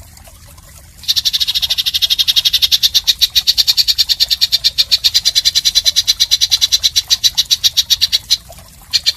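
An animal's rapid, rasping pulsed trill of about ten even pulses a second, high-pitched, in bouts: one long bout starts about a second in and stops about eight seconds in, and another starts near the end.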